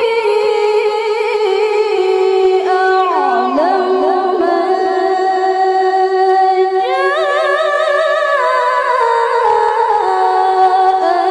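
A woman reciting the Qur'an in melodic tilawah style, unaccompanied, holding long high notes with wavering ornaments; the voice climbs higher about seven seconds in.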